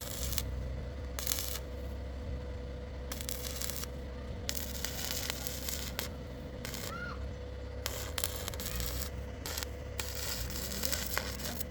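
Scattered light metallic clinks and brief scrapes over a steady low hum.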